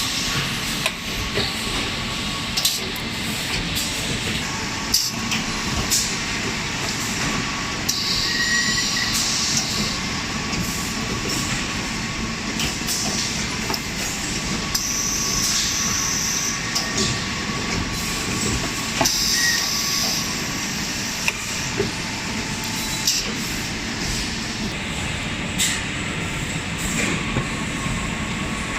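Hydraulic tube end forming machine running: a steady hydraulic pump hum with a faint whine, scattered clicks, and a short hiss every several seconds as the machine cycles.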